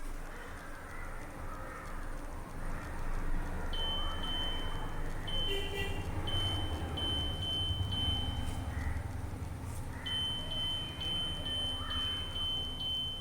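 Washing machine control board beeper sounding runs of short high beeps, about two a second, in two spells, over a low rumble.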